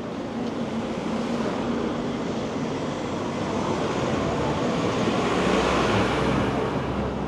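Town street noise with a motor vehicle passing, its engine rumble swelling about five seconds in.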